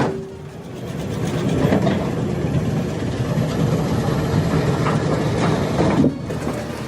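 Mobile debarking machine running under load: a steady heavy engine and machinery drone with occasional sharp knocks. The sound breaks off abruptly about six seconds in.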